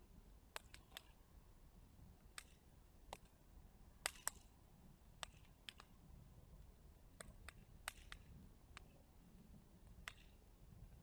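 Wood fire crackling: sharp, irregular pops and snaps at uneven intervals, the loudest two close together about four seconds in.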